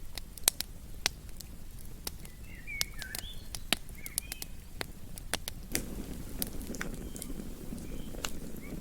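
Wood campfire crackling with sharp, irregular pops. A few short chirping calls come between about two and a half and four seconds in, and a low rushing sound joins the crackle about six seconds in.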